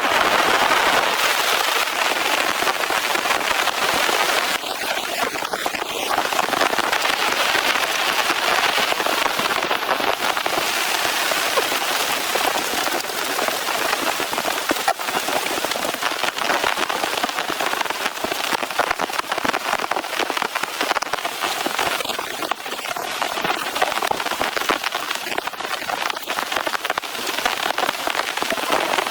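Heavy rain falling steadily, a dense patter of many drops striking close surfaces.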